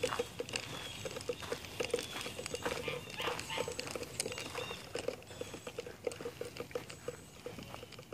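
Soft, rapid pattering, about four to five small clicks a second, with a few faint high chirps now and then.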